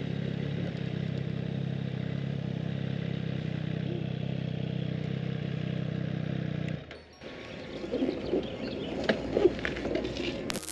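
Motorcycle engine, a Triumph Street Triple R inline-three, running at a steady low speed. About seven seconds in it cuts off abruptly, and quieter irregular clattering knocks follow.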